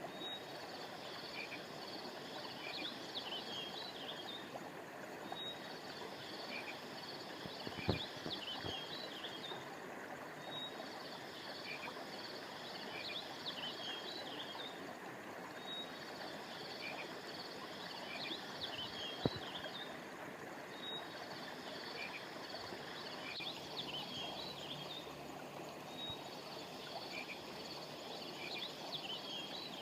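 Steady flow of a river or stream, under a high-pitched chirping chorus of small animals that comes in repeating phrases about every five seconds. Two soft clicks, one about eight seconds in and one near the middle.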